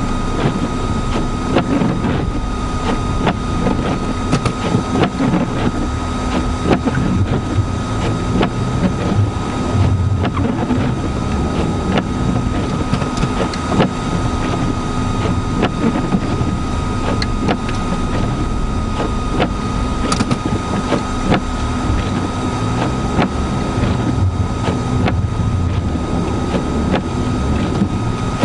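Vehicle cabin noise while driving through a blizzard: the engine and wind run steadily, with a steady high-pitched whine and a scatter of small ticks.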